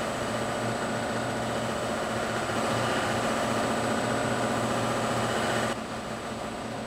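Buffing machine running steadily, its cloth buffing wheels charged with medium compound polishing a wooden stave drum shell, a hum with a hiss over it. The hiss drops away suddenly near the end while the hum runs on.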